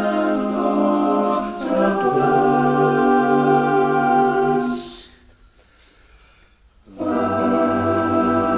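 Male barbershop chorus singing a cappella in long held chords. The chord changes about two seconds in and is cut off with a hissy consonant about five seconds in. After a near-silent pause of about two seconds, a new chord comes in.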